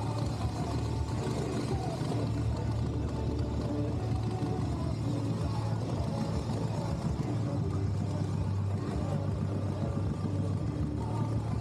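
Motorcycle engine running steadily with a constant low drone, with a voice faintly in the background.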